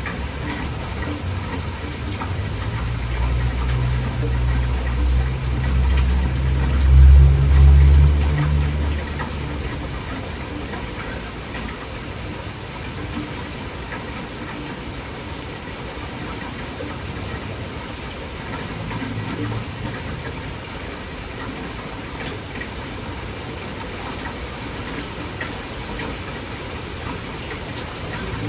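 Heavy rain falling steadily in a downpour. A low rumble swells and fades in the first third, loudest about seven seconds in, with a fainter one about two-thirds of the way through.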